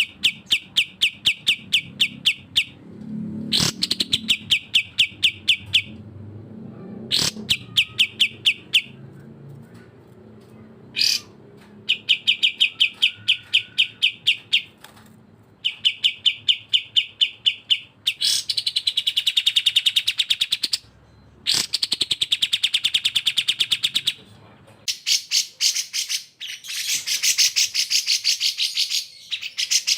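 Recorded bulbul song, cucak jenggot (grey-cheeked bulbul) and kapas tembak (olive-winged bulbul): rapid chattering trills of about ten notes a second, in bursts of two to three seconds. In the second half the chatter turns denser and higher.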